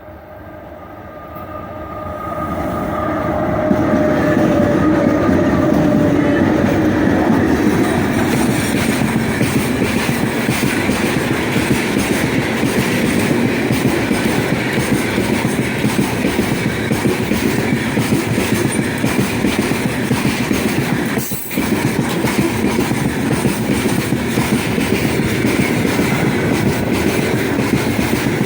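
Electric freight train passing close by. In the first few seconds a whine from the 3ES5K 'Ermak' locomotive slides slightly lower in pitch as the sound swells. Then the loaded freight wagons roll past with a steady rumble and clickety-clack of wheels over the rails, with a brief drop about twenty seconds in.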